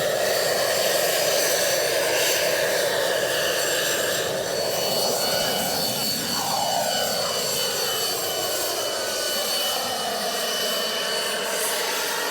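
JetCat PHT3 turbine-powered RC helicopter flying, a steady high turbine whine over the rotor noise. The sound sweeps in pitch and tone as the helicopter moves past.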